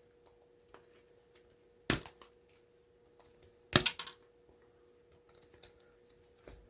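Sharp clicks and snaps of hand tools and small metal scrap parts being worked by hand: one loud click about two seconds in, a quick cluster of clicks just before halfway, and faint ticks between, over a faint steady hum.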